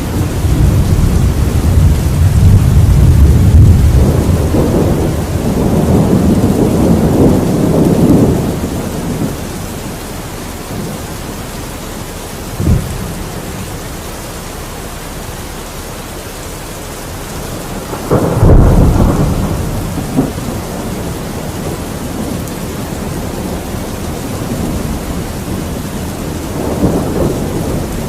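Steady rain with repeated thunder. A long rolling rumble fills the first eight seconds or so, a sharp crack comes about thirteen seconds in, a loud rumble follows about eighteen seconds in, and a softer roll comes near the end.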